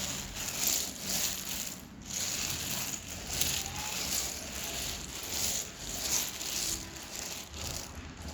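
Dry edible clay being crunched and crumbling, a quick irregular run of crisp crunches with a few short gaps.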